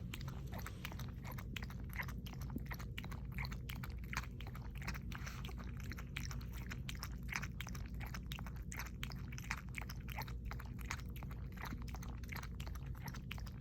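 Pomeranian lapping water, a quick, irregular run of small wet laps about four a second, over a low steady hum.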